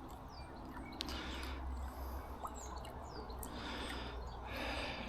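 Small birds chirping, with many short, quick calls scattered through, over a steady low outdoor rumble. There is one brief click about a second in.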